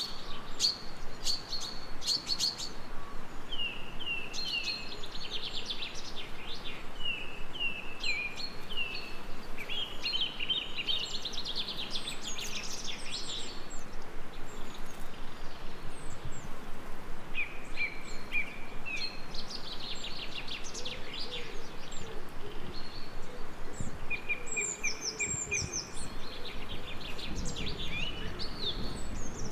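Several songbirds chirping and singing in repeated short phrases and trills, over a steady hiss of gentle rain. A low rumble rises near the end.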